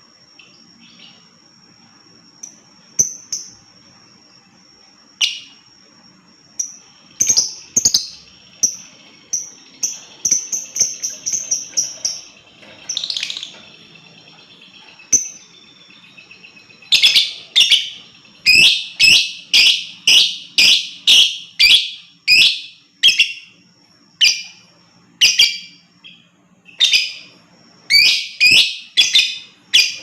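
Lovebird calling. Scattered chirps over a thin, high, steady tone come first, then from about halfway a fast run of loud, shrill chirps, about two a second.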